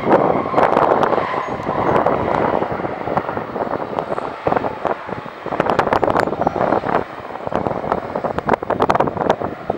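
Jet noise of a landing Boeing 767-200, a steady rush with a fading whine at the start, broken by gusts of wind buffeting the microphone.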